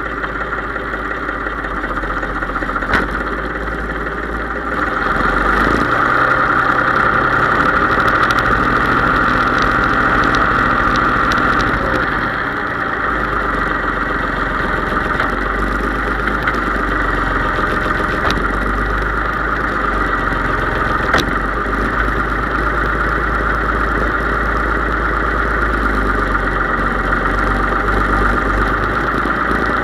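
Case IH 3220 tractor engine running steadily. It gets louder about five seconds in and eases back a little after about twelve seconds.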